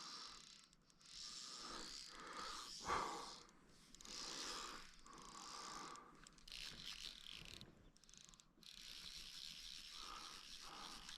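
Orvis Clearwater cassette fly reel being cranked in spells of a second or two, its clicking ratchet winding in fly line. A sharp knock about three seconds in.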